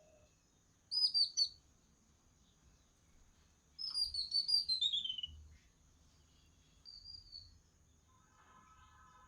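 Small birds chirping: a quick burst of high notes, then a longer run of rapid notes falling in pitch, then a fainter short phrase, over a steady thin high-pitched tone.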